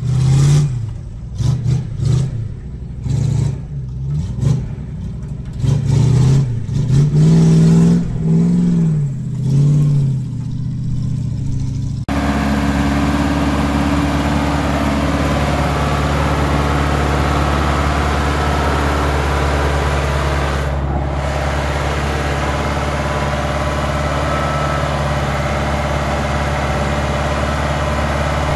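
Truck engine revved up and down again and again, its pitch rising and falling every second or two. After an abrupt cut about twelve seconds in it runs at a steady, even pitch.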